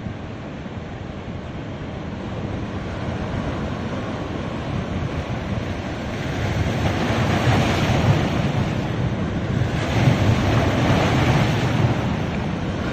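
Sea waves washing onto a beach. The surf builds steadily, and two louder breakers come in around the middle and again later on, with wind rumbling on the microphone.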